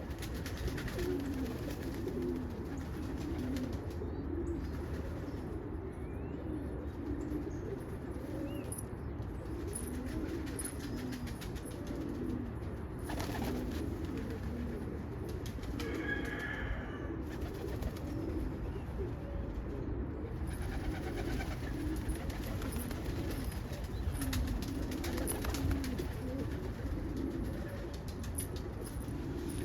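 A group of birds calling with low, repeated calls that overlap continuously, over a steady low background rumble.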